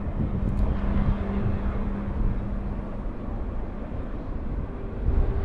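Freight train running in the distance, a low steady rumble with a hum held for the first few seconds.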